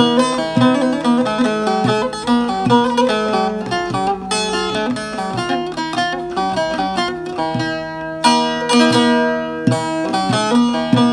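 Bağlama (Turkish long-necked saz) played, a quick run of plucked melody notes over a ringing drone, with a few fuller strummed strokes about eight seconds in.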